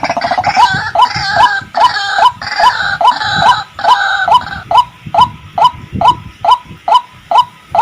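White-breasted waterhen (ruak-ruak) calling: a monotonous series of short, evenly spaced notes, about two and a half a second. A second, rougher chattering call overlaps them through the first half and stops about four and a half seconds in.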